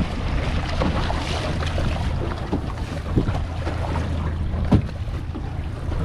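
Wind buffeting the microphone on an open fishing boat, over a steady low rumble, with scattered light knocks and one sharper knock about three-quarters of the way through.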